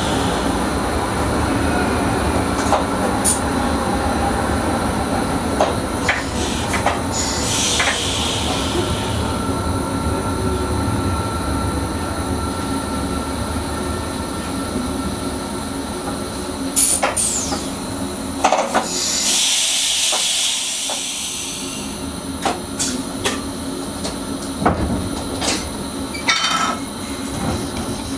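Electric Sprinter commuter train heard from the driver's cab, running with a steady rumble and a faint steady whine, with scattered clicks and knocks from the wheels over rail joints and points. Two hisses come about 8 and 20 seconds in. The rumble fades around the second hiss and the sound grows gradually quieter.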